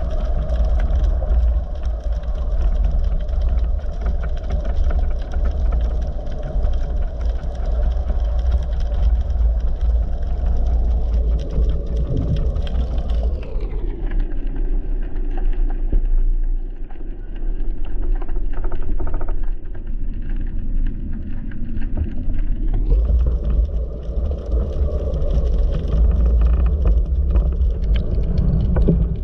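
Strong wind, over 40 mph, buffeting the microphone with a loud, steady low rumble and hiss; for about ten seconds in the middle the hiss falls away and the sound goes duller before the full rush returns.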